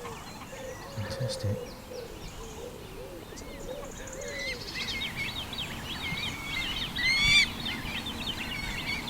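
Birds calling: lower, arched repeated calls in the first half, then from about halfway a dense stream of quick high chirps, with a louder downward-swept call a little after seven seconds in.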